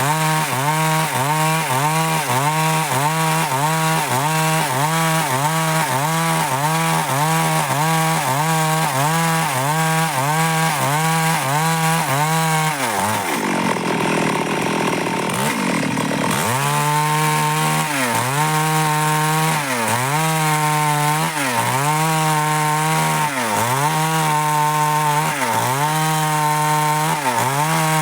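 Stihl MS 382 two-stroke chainsaw running at high revs while cutting dry wood, its pitch dipping rhythmically about twice a second as the chain bites and frees. About halfway through the revs drop for a few seconds, then the saw picks up again with slower dips, about one a second.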